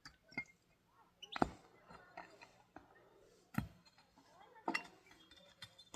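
A few sharp knocks and clinks with fainter clicks between them. The loudest come about a second and a half in and again after three and a half seconds.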